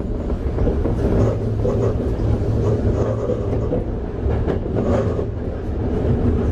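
Toei 5300 series electric train with Mitsubishi GTO-VVVF drive running along the line, heard from aboard: a steady low rumble of wheels on rail with a few faint clicks.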